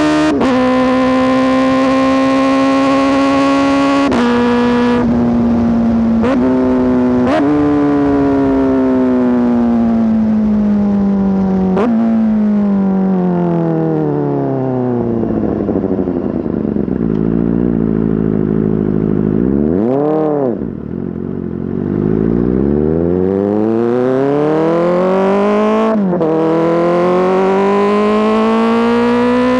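Kawasaki ZX-4RR's 399 cc inline-four through an SC Project S1 exhaust, revving high with quick gear changes in the first seven seconds. The engine then winds down slowly as the bike slows, gives a short throttle blip about twenty seconds in, and climbs again under acceleration with one more gear change near the end.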